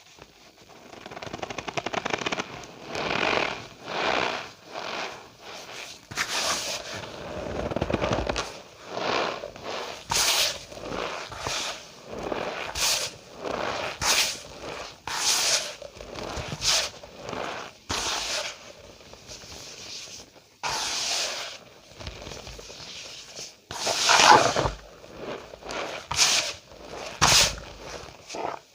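Cornstarch powder being squeezed and pressed by hand, giving squeaky, crunchy crackles in repeated strokes about once a second.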